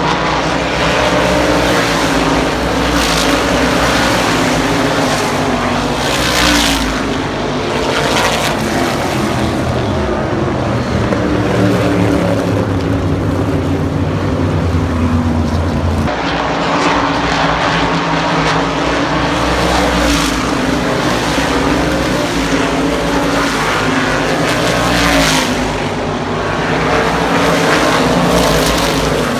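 Racing engines running hard at speed, with an abrupt change about halfway through.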